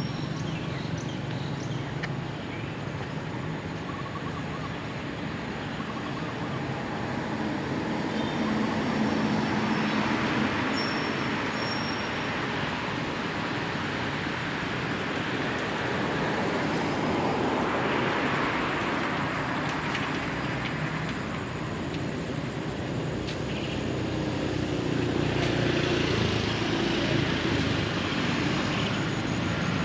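Road traffic passing close by: a steady rush of vehicles that swells and fades about three times as they go past, with a few faint bird chirps over it.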